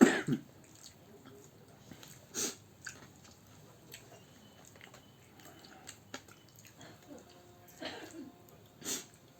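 Close-up eating sounds: chewing and biting on home-made chicken biryani and kebab, with scattered light clicks and a few short noisy bursts. A brief loud cry from a voice comes right at the start.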